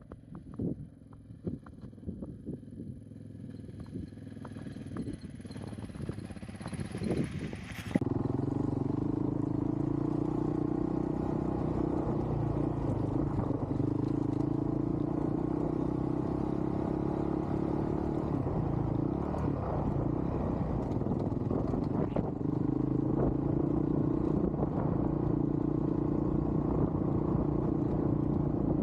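Dual-sport motorcycle on a dirt trail. For the first several seconds there is scattered clatter and knocking that slowly grows louder. About eight seconds in, it changes abruptly to the motorcycle's engine running steadily at riding speed.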